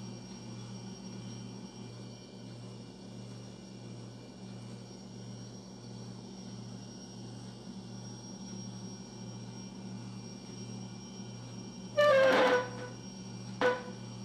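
A low hum pulsing about twice a second, with a faint steady high tone above it. About twelve seconds in, a wooden chair scrapes loudly across the floor with a short squeal as it is pushed back, and a second brief scrape follows a moment later.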